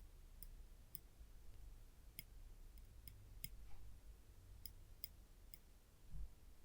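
Tweezers being pressed shut and released, giving about eight quiet, sharp ticks at uneven intervals, with a soft low thump near the end.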